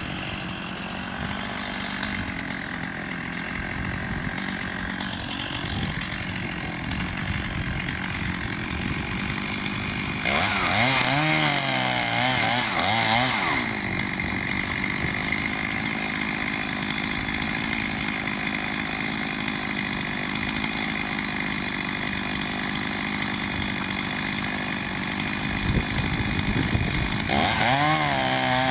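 Chainsaw running steadily, revved hard for a few seconds about a third of the way in and again near the end, its pitch rising and falling under the throttle.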